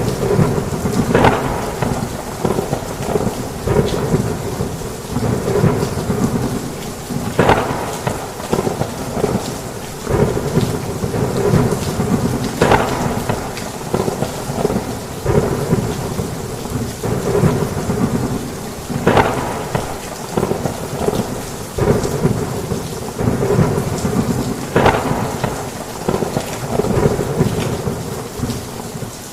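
Heavy rain drumming on a roof with thunder rumbling underneath, a dense, steady downpour. Sharper splashes stand out every five or six seconds.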